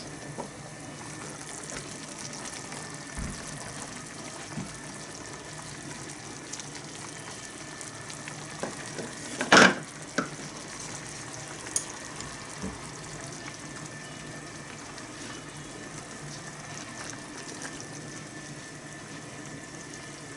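Small iron pot of kimchi stew simmering with a steady bubbling hiss, a few light ticks over it. About halfway through there is one louder sharp sound.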